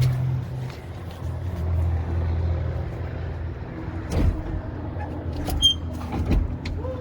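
A few sharp knocks and a short ringing metallic clink over a steady low hum, as truck batteries are being set in and worked on.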